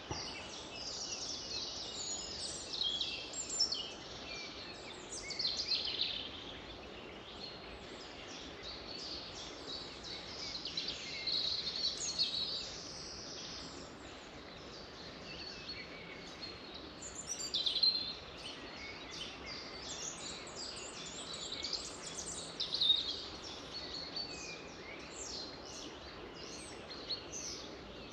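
Several songbirds singing and chirping at once, with short, quick trills and calls coming in overlapping bursts over a faint steady background hiss.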